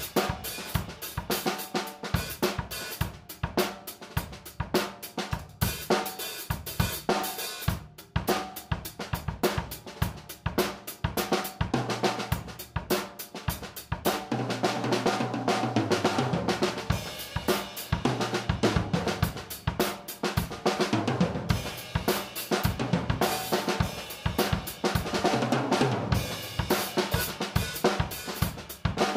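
1996 Pearl Export Select five-piece drum kit played: a continuous groove of snare, bass drum, toms, hi-hat and cymbals.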